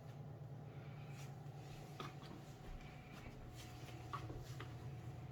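Quiet room tone: a steady low hum with a faint higher whine, and a few small clicks and rustles of handling.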